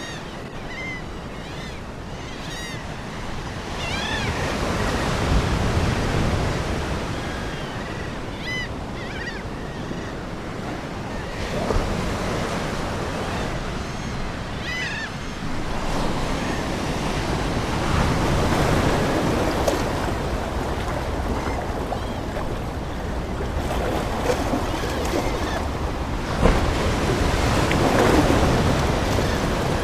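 Ocean surf washing ashore, swelling and ebbing every several seconds. Seagulls call several times over it, mostly in the first half.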